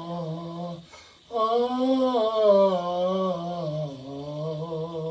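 A man's voice singing a slow wordless tune in long held notes: one note breaking off just before a second in, then after a short pause a longer line that rises about two seconds in and then steps down.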